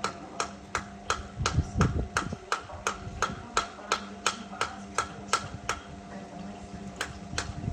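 Indesit My Time EWD61052 washing machine running with a steady hum and a regular clicking about three times a second, which pauses briefly about six seconds in.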